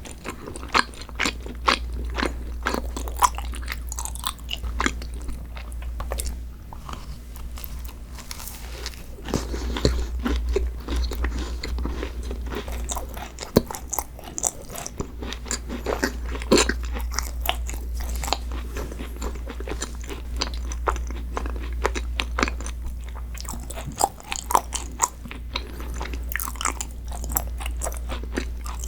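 Close-miked eating of a dessert: crisp, crackly crunching and chewing with many quick bites, over a steady low hum.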